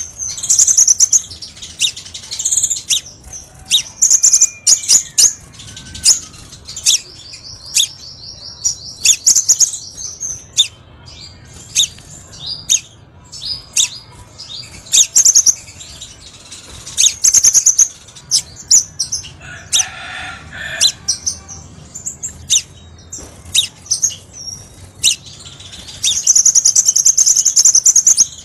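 Crimson sunbird (kolibri sepah raja) singing: a busy run of high, sharp chirps and short notes, broken by long, rapid, buzzy trills about eight seconds in and again near the end.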